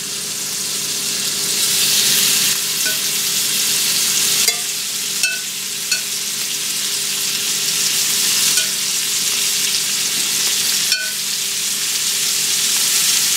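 Chicken strips sizzling in hot bacon grease in a cast iron skillet as more strips are laid in one after another, the frying getting louder in the first couple of seconds. A few light clicks against the pan.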